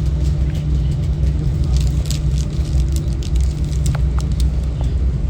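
Steady low rumble of a ferry's engines and hull underway, with faint scattered crackles over it.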